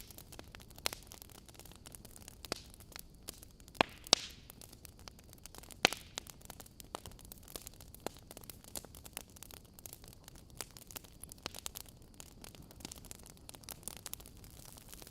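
Wood fire burning in a fireplace, crackling with irregular sharp pops over a soft steady hiss; the loudest pops come about four and six seconds in.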